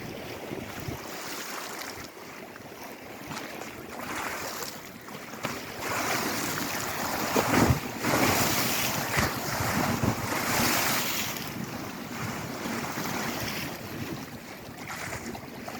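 Lake Erie waves washing onto the shore, swelling and ebbing, loudest in the middle stretch, with wind on the microphone.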